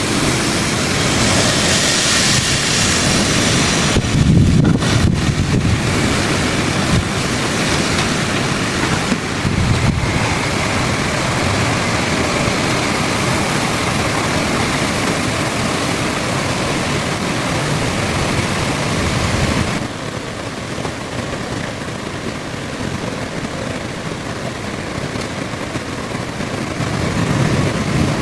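Heavy rain pouring in strong gusting wind, the gusts buffeting the microphone with low rumbles. The noise drops a little about two-thirds of the way through.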